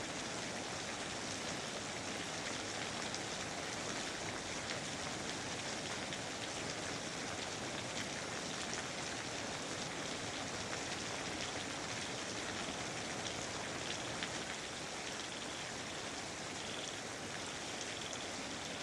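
Steady rain with many individual drops hitting surfaces, at an even level. In the last few seconds a faint, evenly repeated high-pitched call joins in.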